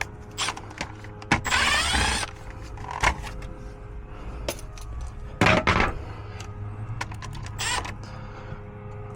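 Scattered clicks and knocks of handling over a steady low hum, with a few short louder rustling noises.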